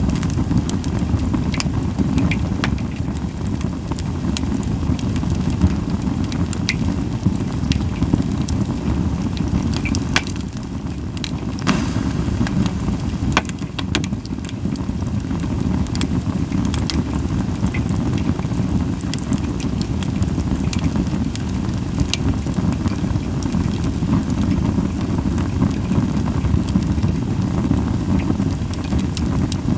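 Japanese white pine (goyōmatsu) firewood burning in a campfire: sharp crackles and pops come at irregular intervals over a steady low rumble.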